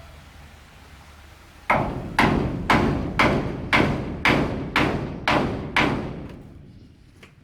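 Hammer blows on wood: nine strikes in a steady rhythm, about two a second, starting a little under two seconds in and stopping about four seconds later.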